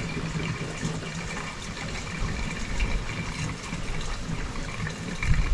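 Fuel being poured into a quad bike's fuel tank, a steady gushing fill.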